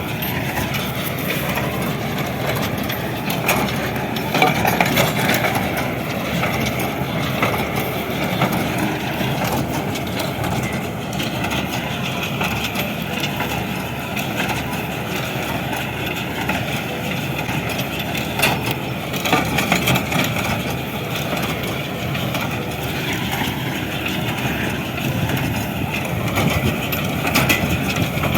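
Tractor engine running steadily, with a few short knocks over it.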